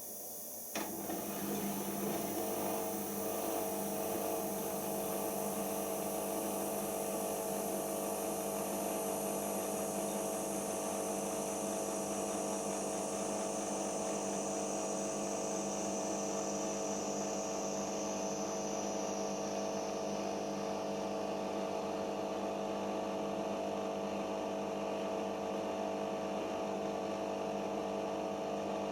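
Siemens iQ 1430 washing machine: a click about a second in, then a steady electric hum from a motor or pump that holds an even pitch to the end.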